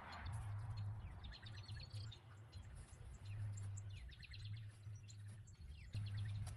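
Faint songbird chirps, a few quick runs of short high notes, over a low rumble that comes and goes.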